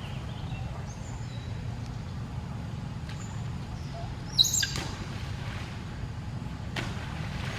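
A short, loud, high-pitched animal squeal with falling pitch about halfway through, after a few faint high chirps, over a steady low rumble.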